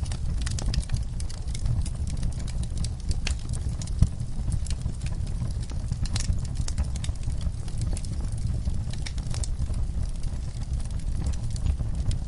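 Wood fire burning in a fireplace: a steady low rumble of the flames with irregular crackles and pops, one louder pop about four seconds in.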